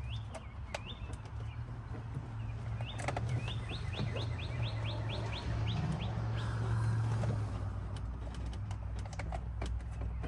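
A bird singing: short rising chirps, with a quick run of about a dozen a few seconds in. Over it come scattered sharp clicks of plastic dash clips and panels snapping into place, most of them near the end, and a steady low hum.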